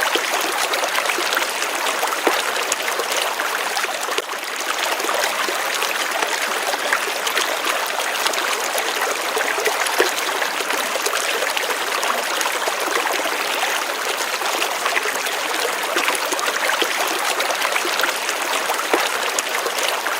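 Gently running water, a small stream trickling and splashing steadily with fine bubbling detail.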